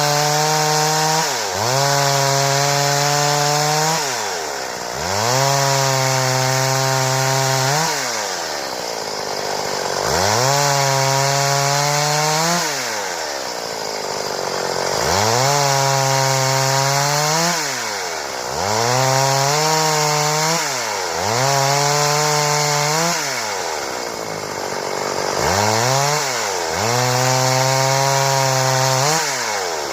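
Stihl chainsaw running at high revs and cutting wood, its engine pitch dropping sharply and climbing back again and again every few seconds.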